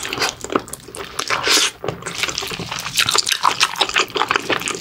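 Close-miked wet chewing and mouth smacking on saucy mala stir-fried pork trotter, a dense, irregular run of short sticky clicks.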